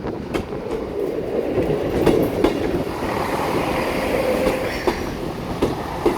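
A Class 158 diesel multiple unit running along the line, with a steady rumble that builds over the first couple of seconds and a series of sharp clacks as its wheels cross rail joints.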